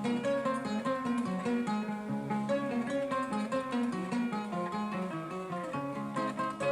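Kora, the West African 21-string harp-lute, played without singing: a continuous run of plucked notes over a repeating bass figure.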